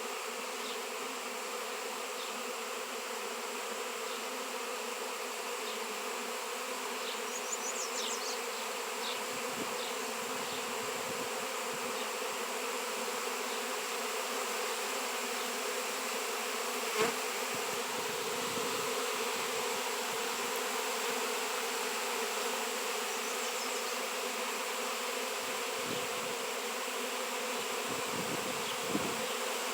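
A swarm of honey bees buzzing: a steady, dense drone of many wings that holds without a break.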